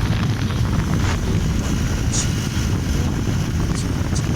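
Steady low wind rumble on the microphone with motorcycle road noise while riding a Bajaj Pulsar NS200 through traffic. A few short high chirps cut through about two seconds in and again near the end.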